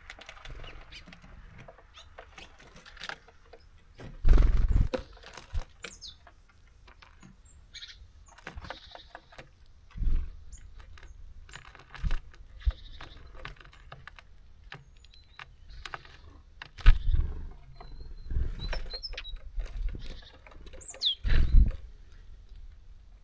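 Small birds at a seed feeder: rapid light taps and clicks of pecking and hopping, a few dull thumps, and occasional faint short chirps, one a quick falling call near the end.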